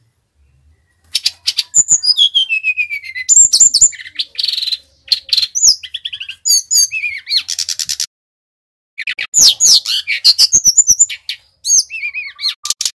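Sikatan rimba dada coklat (brown-chested jungle flycatcher), Bali type, singing vigorously. The song is a rapid, varied run of high whistles, falling slurred notes and quick chattering trills. It starts about a second in and comes in two long bursts with a short pause about eight seconds in.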